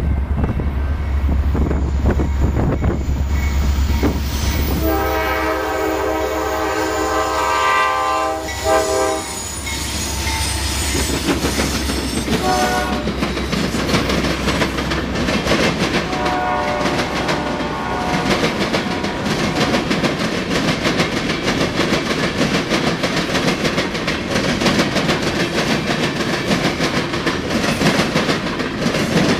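Diesel freight locomotive approaching with a low rumble and sounding its multi-chime air horn: a long blast, a short one, then another. The locomotive then passes and the hopper cars rattle by with steady wheel clickety-clack on the rail joints.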